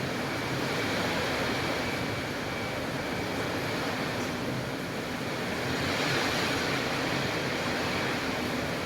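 Rain falling in strong wind: a steady rushing hiss that swells a little about six seconds in.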